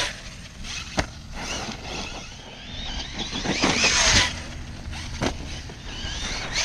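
Brushless electric 6S RC truck running over rough ground, its motor whine rising and falling with the throttle, with a loud surge near the middle. A sharp knock about a second in and another near the end.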